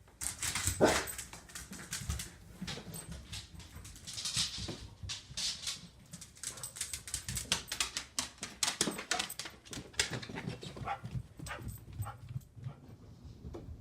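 A pit bull dog moving about and making sounds, with many quick clicks and scuffles and a few short hissy bursts; the loudest sound comes about a second in.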